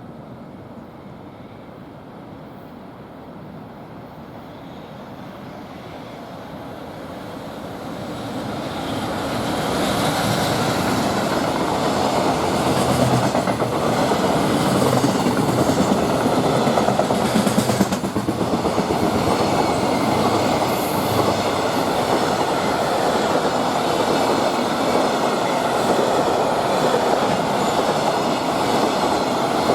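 Freight train passing through a station. Its rumble builds over the first ten seconds as it approaches, then a long string of freight wagons rolls past loudly and steadily, with the clatter of wheels on the track.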